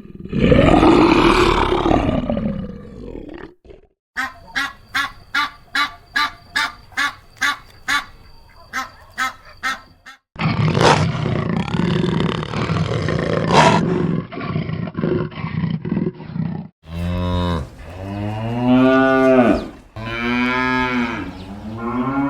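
A succession of different animal calls: a rough call at the start, then a run of about a dozen short, evenly spaced calls, about two a second, then a noisy stretch, and near the end two long calls that rise and fall in pitch.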